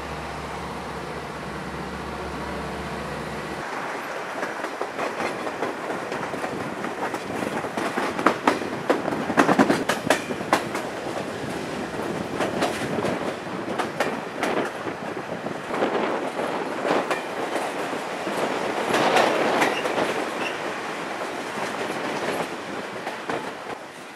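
A steady low engine hum from the standing train, then, after a cut about four seconds in, the Chihuahua–Pacific passenger train running, with wheels clacking over rail joints and the cars rattling, heard from an open door.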